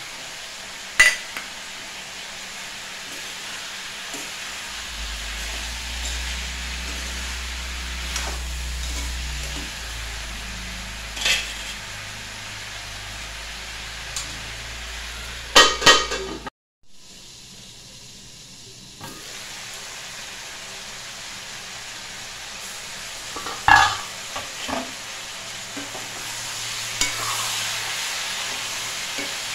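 Cubed papaya frying in an aluminium kadhai with a steady sizzle, stirred with a steel spoon that clinks against the pan a few times. The sound cuts out for a moment about halfway.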